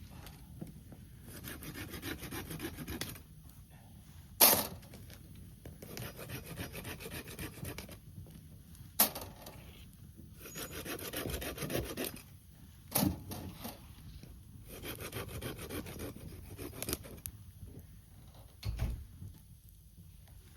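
Hand saw cutting gathered wood for the campfire in four bouts of about two seconds of fast strokes, with a single sharp crack between bouts; the first crack, about four seconds in, is the loudest sound.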